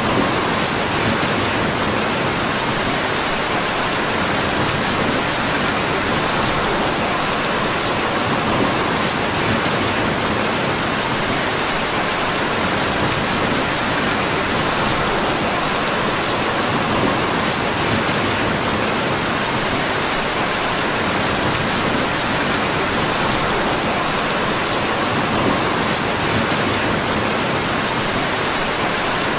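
Steady rain falling on a surface: an even hiss that does not let up, with occasional faint ticks.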